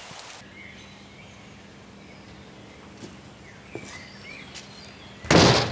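Rain patter that cuts off abruptly at the very start, then scattered short bird chirps over a faint steady hum. A loud, brief rush of noise comes near the end.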